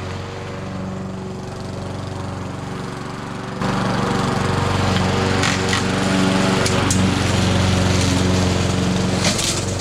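Briggs & Stratton push mower engine running steadily, now that its stuck kill-switch cable no longer grounds out the ignition. It grows louder about three and a half seconds in.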